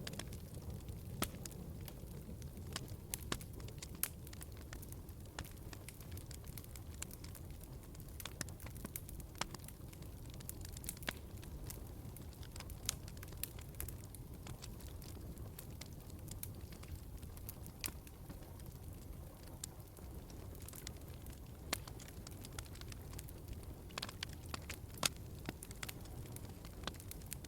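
Log fire burning in a fireplace: irregular sharp pops and crackles over a steady low rumble of the flames.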